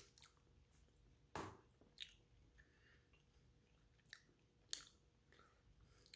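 Faint chewing of a soft gummy candy, with a few short, soft wet mouth sounds, the loudest about a second and a half in.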